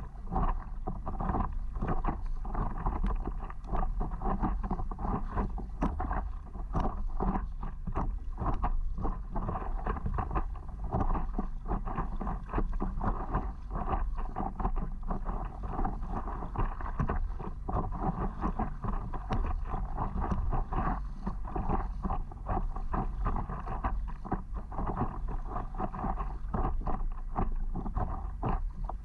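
Wind buffeting the microphone, with water lapping and splashing from paddleboarding. It goes on steadily throughout, rising and falling in loudness.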